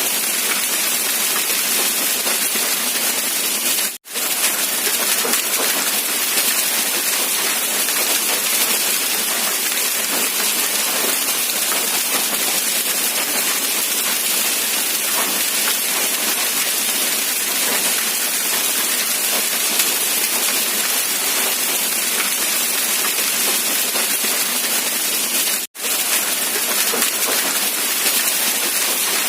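Steady rain falling, an even hiss of drops, broken twice by a momentary dropout: about four seconds in and again about three-quarters of the way through.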